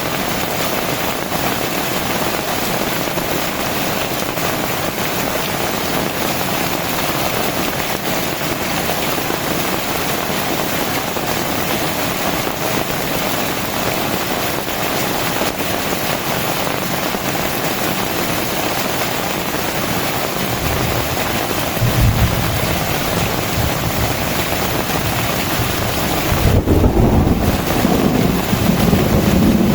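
Heavy rain pouring steadily, with low thunder rumbles starting about two-thirds of the way through and growing stronger near the end.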